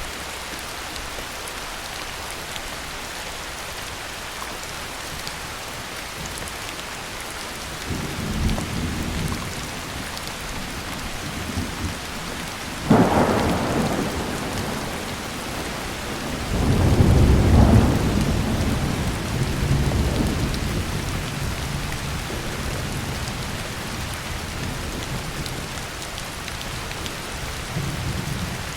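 Heavy rain falling steadily with thunder. Low rumbles build about a third of the way in, then a sharp crack of thunder is followed by a long, loud rolling rumble that slowly fades back into the rain.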